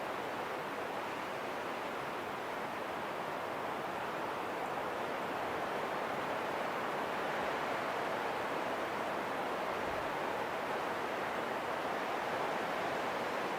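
Wind blowing in a steady, even rush with no gusts or breaks.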